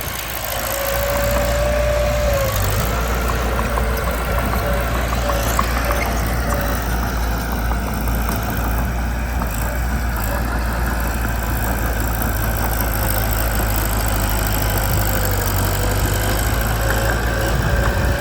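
Mitsubishi BD2 bulldozer's diesel engine running steadily at a low drone. A thin whine rises over it briefly about a second in and again near the end.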